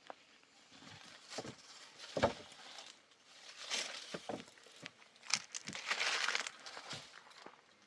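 Irregular rustling and crinkling with a few short knocks, as of something being handled, loudest about two seconds in and again in a longer burst past the middle.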